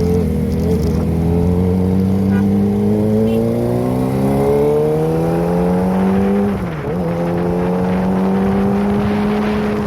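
Kawasaki ZX-25R's 250 cc inline-four running through a Prospeed aftermarket exhaust, climbing steadily in pitch as it accelerates for several seconds. About two-thirds in, the note drops briefly in a gearshift, then holds steady.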